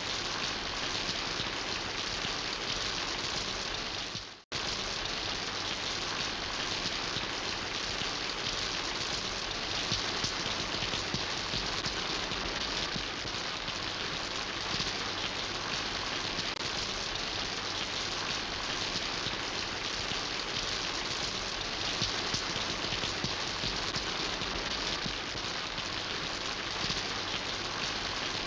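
Steady rain falling, a dense even patter. About four seconds in it fades out for a split second and then cuts straight back in.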